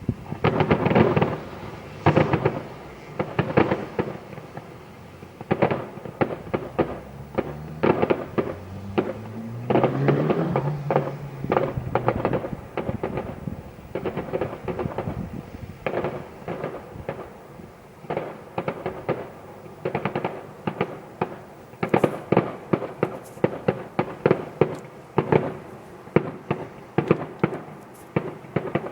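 Fireworks display: a continuous barrage of bangs and crackling, with heavy bursts about a second in, around ten seconds in, and a dense run of rapid crackles in the last third.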